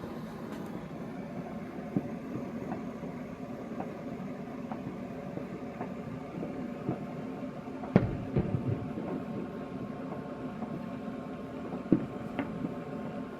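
Fireworks going off at a distance: a sharp bang about two seconds in, a louder one midway followed by a quick string of smaller pops, and another bang near the end, over a steady low hum.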